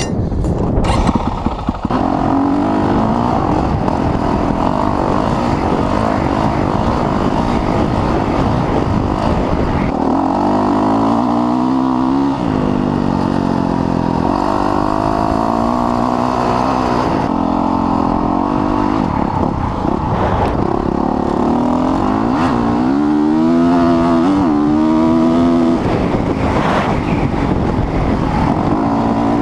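Dirt bike engine running hard over a heavy rushing noise, its pitch rising and falling as the throttle is worked, most clearly twice: about ten seconds in and again past twenty seconds.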